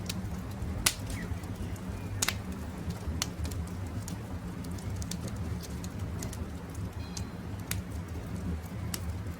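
Campfire crackling: a steady low rumble with scattered sharp pops and snaps, the loudest about a second in. Faint bird calls come through a couple of times.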